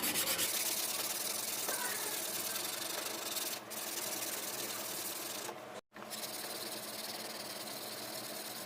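Steel of an old file being ground or sanded by a power tool: a steady harsh hiss, cut off briefly just before six seconds in and then resuming.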